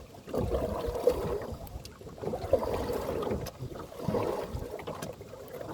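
Canoe paddle strokes in lake water, with gurgling and splashing swishes that swell about every two seconds, three times.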